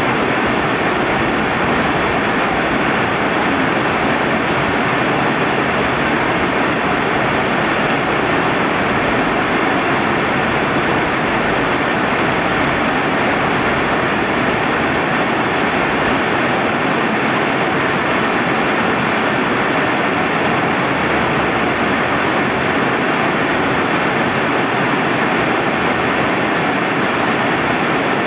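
Steady rain falling by a river: a dense, even hiss of rain and running water that does not change.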